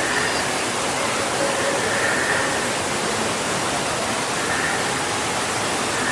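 A steady, even rush of falling water, like a waterfall, running without a break.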